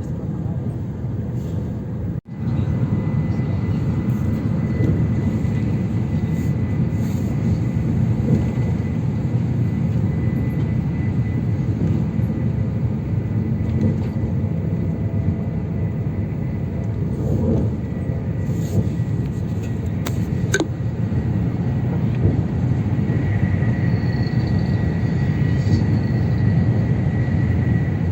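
AVE high-speed train running at speed: a steady low rumble with a faint high whine. The sound cuts out for an instant about two seconds in.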